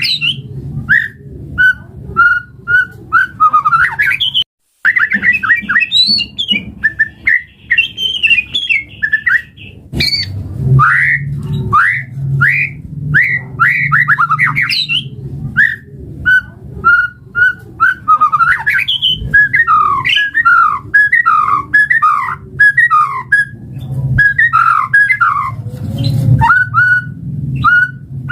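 White-rumped shama singing a varied, loud song of whistled sweeps, rapid repeated notes and trills, broken by a brief cut about four and a half seconds in. A steady low hum runs underneath.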